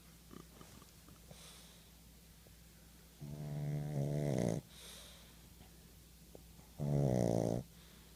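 Pug snoring while asleep: two loud snores about three and a half seconds apart, the first the longer, with faint breaths between.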